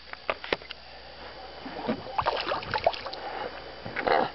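Water splashing and sloshing at the side of a fishing boat, with scattered clicks and knocks, likely from a just-landed bass being handled. A louder splash comes near the end.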